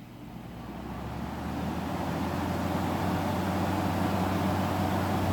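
Window air conditioner's fan motor and blower spinning up and then running steadily on low, with a low hum under the air noise; the sound builds over the first two seconds or so. The owner says this unit doesn't sound very good because it has bearing problems.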